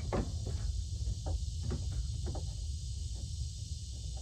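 Several short, light knocks and clunks in the first two and a half seconds as a new aluminum radiator is worked down into its lower mounting bushings, over a steady low rumble.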